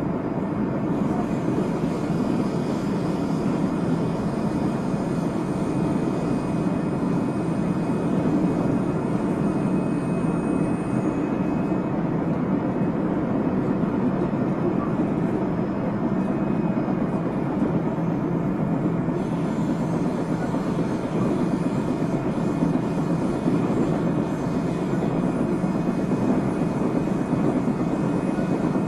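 JR Central 373 series electric train with a Toshiba VVVF inverter, heard from inside the car while running: a steady rumble of wheels on rail with a faint high whine. A thin high tone fades out about 11 seconds in, and the hiss grows brighter at about 19 seconds. This set, F2, is known for an abnormal noise.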